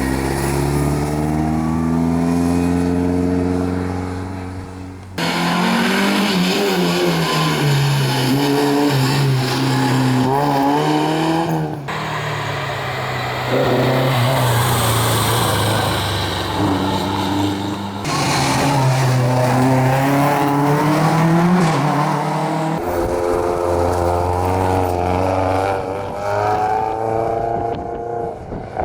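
Historic rally car engines revving hard and accelerating, their pitch climbing and dropping with each gear change, in several short passes that cut abruptly one to the next.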